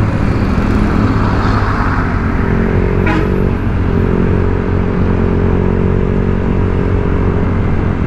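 Honda Vario 125 scooter's single-cylinder engine running steadily on light, gentle throttle while riding, its aftermarket racing-style exhaust giving a quiet, mellow note. A brief chirp comes about three seconds in.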